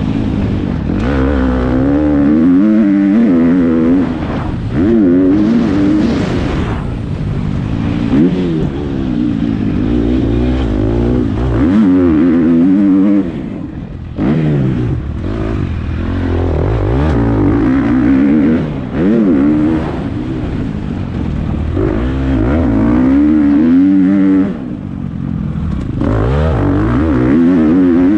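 Motocross bike engine revving up and down as the throttle is opened and shut over and over, with short drops in level about halfway through and again near the end.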